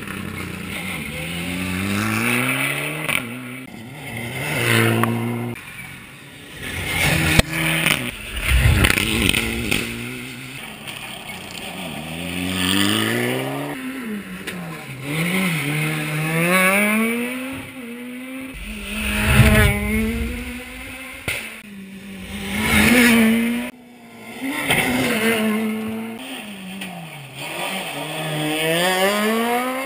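Rally car engine at high revs, its pitch climbing and dropping again and again as it accelerates, shifts gear and lifts off, with brief loud low rumbles about a third of the way in and again around two-thirds in.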